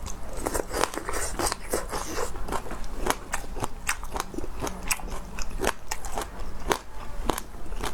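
A person biting and chewing crunchy food, a quick irregular run of crisp crunches several times a second.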